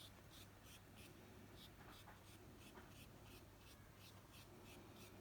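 Faint scratch of a paintbrush dabbing on watercolour paper, light quick strokes at about three a second.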